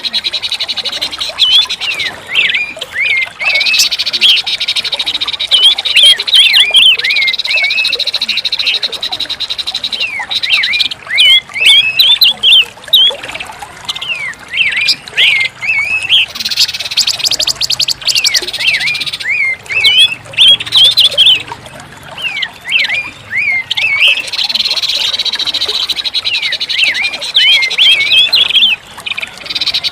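Pancawarna bird song: rapid, high chirping phrases with quick up-and-down notes, delivered in clusters over a buzzing trill that comes and goes.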